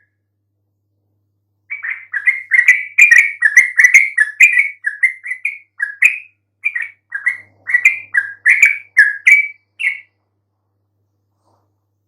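Yellow-vented bulbul (trucukan) singing a fast run of short chattering notes, several a second, starting a couple of seconds in and stopping about two seconds before the end: a bird in full song, the kind of 'gacor' song used to lure other bulbuls into answering.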